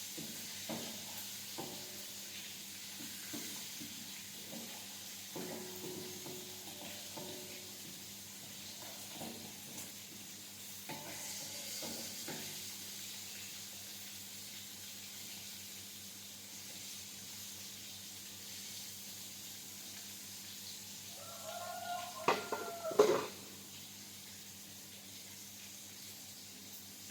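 Food frying in hot oil in a pan, a steady sizzle, with scattered light knocks of a utensil against the pan. Near the end comes a brief louder clatter with a short ringing tone.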